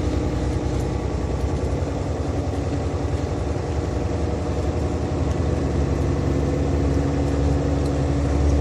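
Big-rig truck's diesel engine running steadily, heard from inside the cab along with road noise. Its low hum grows louder near the end.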